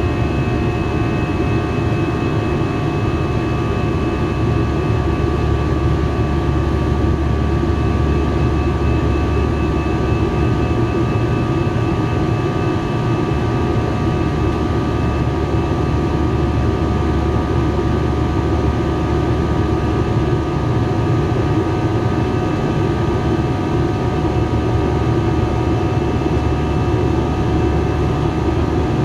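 Steady cabin noise inside an Airbus A321 with its jet engines running: a low drone and airflow hiss, with a few steady high whine tones over it.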